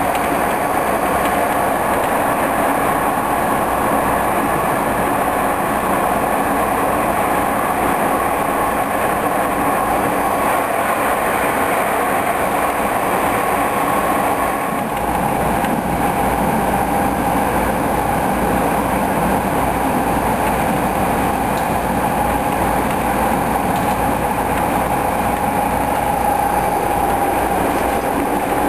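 Passenger train running along the track with a steady rumble and a steady hum, whose pitch shifts down a little about halfway through.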